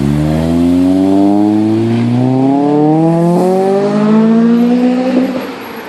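A car engine accelerating hard, its pitch climbing steadily for about five seconds before it drops away near the end.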